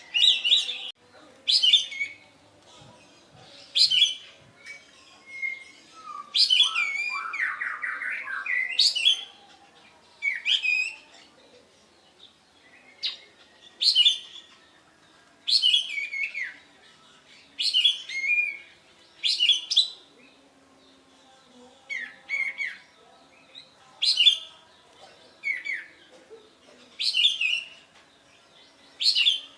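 A kapas tembak songbird calling repeatedly in its 'tembakan' style: short, sharp, loud notes about every one and a half to two seconds, broken by one longer warbling phrase about six seconds in.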